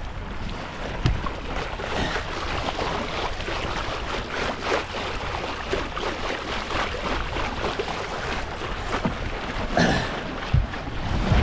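Steady noise of water and air aboard a small sailboat, with short irregular splashes and knocks throughout.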